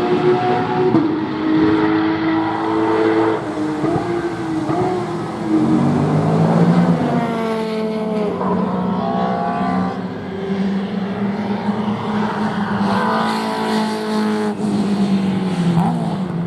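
Race car engines lapping a circuit, with cars passing one after another. The engine pitch rises and falls through gear changes and pass-bys, most clearly around the middle and again near the end.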